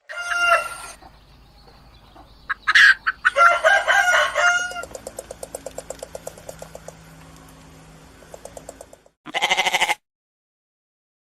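Farm animals calling: several loud, wavering cries in the first few seconds, then a long run of quick, even pulsed notes, and one more wavering call near the end.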